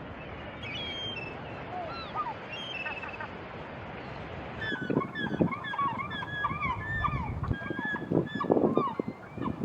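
A few scattered whistled bird calls over a background hiss, then, about halfway through, a flock of geese honking: many short overlapping calls, repeated densely.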